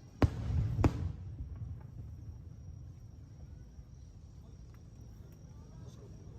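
Two fireworks shells bursting overhead, sharp bangs a little over half a second apart with a deep rumble between them, then dying away.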